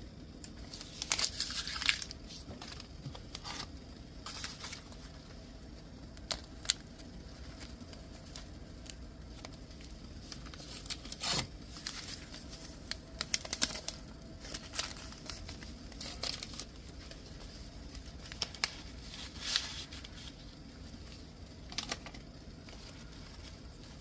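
Tea bag packets being handled, torn open and crinkled, in short scattered bursts of rustling and crackling over a steady low hum.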